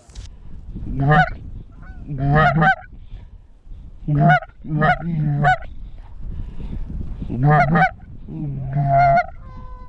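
Goose honking: a string of about eight loud, separate honks, some in quick pairs, over a low rumble of wind.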